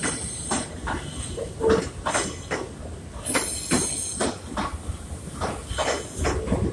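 Train Suite Shiki-shima (JR East E001 series) cars rolling past a platform as the train arrives, with a steady low rumble and wheels knocking over rail joints about twice a second. A brief high hiss comes about three seconds in.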